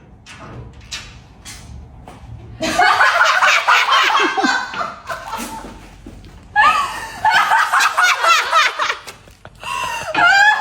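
A few faint clicks, then people burst out laughing about three seconds in: loud fits of laughter that break off and start again twice.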